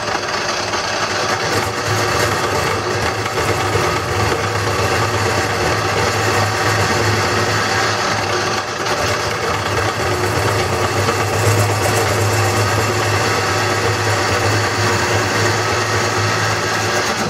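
Wood lathe running with a turning tool cutting into a spinning green-wood bowl blank: a steady motor hum under continuous scraping of the cut.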